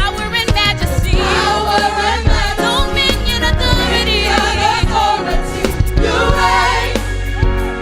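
Gospel music: a choir singing held, wavering notes over instrumental accompaniment with a steady bass.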